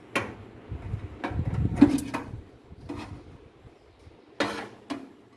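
Microwave oven door being opened and the grilled quail taken out on its dish: a few sharp clicks and knocks, with a low rumble of handling in between.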